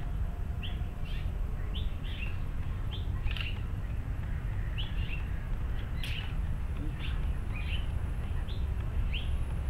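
A small bird chirping repeatedly, short high chirps about one every half second to second, over a steady low background rumble. One sharp click about six seconds in.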